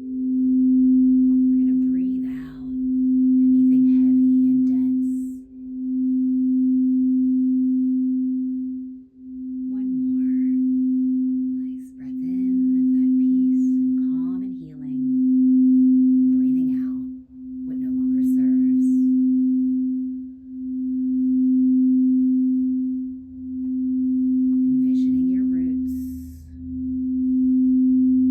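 A singing bowl sounding one sustained low, nearly pure tone that swells and fades in a regular pulse about every three seconds.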